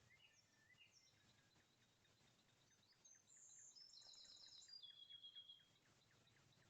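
Faint birdsong: a few short high chirps, then about three seconds in a songbird sings a run of fast, high trills, loudest about five seconds in.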